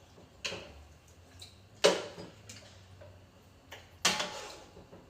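Serving utensil clinking against a pot or plate while food is dished out: three sharp clinks, the loudest about two seconds in, with a few lighter ticks between them.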